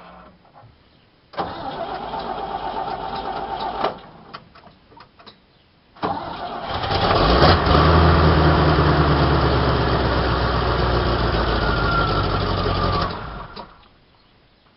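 1976 GMC C6000 grain truck's 350 V8 on a cold start. The starter cranks for about two and a half seconds and stops. About six seconds in it cranks again, the engine fires and runs steadily for about six seconds, then cuts out.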